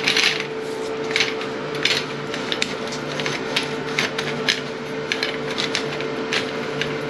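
Toilet snake (closet auger) cable being worked into a clogged toilet, scraping and clicking irregularly against the porcelain. A steady hum runs underneath.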